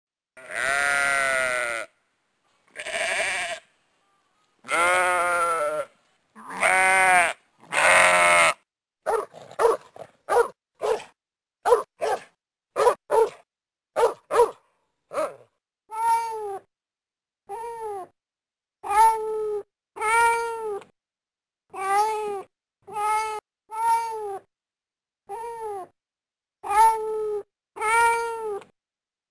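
Animal cries cut one after another with dead silence between them. First come a few long, wavering calls, then a quick run of short ones, then a string of arching cat meows about one a second.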